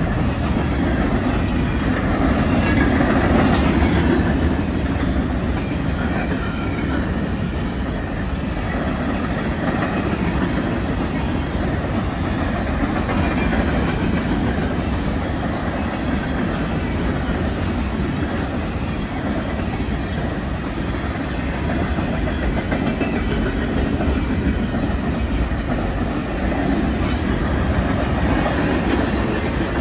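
Freight train cars (covered hoppers, tank cars and boxcars) rolling past fast at close range: a steady, loud rumble of steel wheels on the rails.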